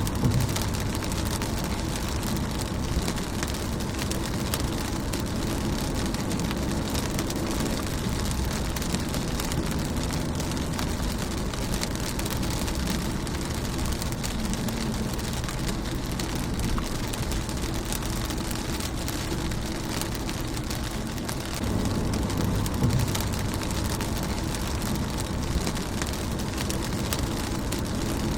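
Steady rain falling on a car's windshield: an even hiss dotted with many separate drop taps, over a low rumble.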